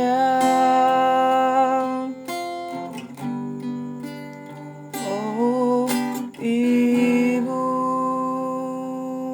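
Acoustic guitar strumming the closing chords of a slow ballad, with long held sung notes that slide up into pitch.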